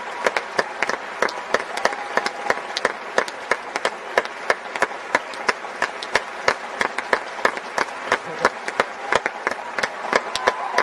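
Audience applauding, many sharp individual claps heard close over a general patter of clapping.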